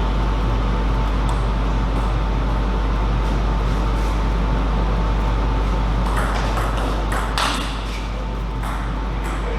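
Table tennis ball clicking off bats and table: a few separate hits in the first seconds, then a quicker run of hits in the last few seconds. Under the hits is a steady loud low hum and hiss.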